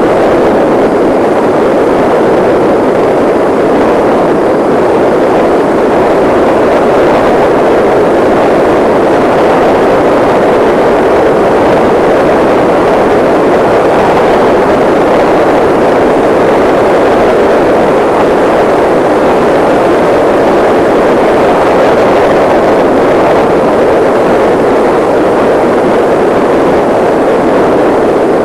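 Steady, loud rushing noise of wind and motion on the microphone while riding, without change or break.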